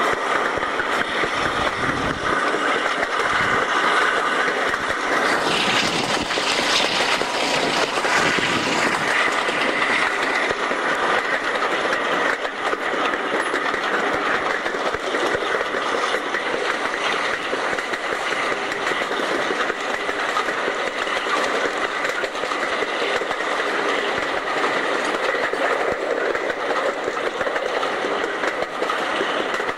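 Passenger train running along the track, heard from an open carriage window: a steady rumble of the coach wheels on the rails with a constant patter of small knocks.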